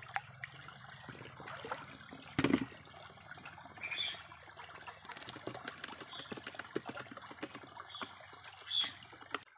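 Shallow stream water splashing and trickling as hands work in it: a run of small splashes and clicks, with a louder splash about two and a half seconds in.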